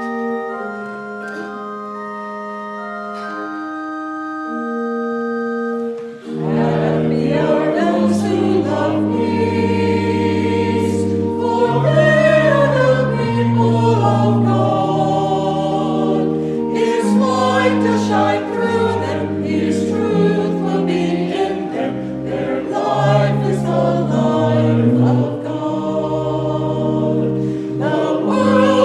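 Church music: an organ plays held chords alone, then about six seconds in a choir comes in and sings with the organ accompanying.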